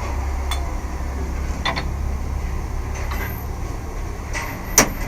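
Scattered metal clicks and knocks of hand tools at work, with one sharp click near the end, over a steady low rumble.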